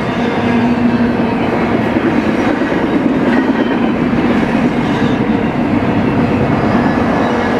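Double-stack intermodal well cars of a BNSF freight train rolling past: a steady, loud rolling noise of steel wheels on the rails.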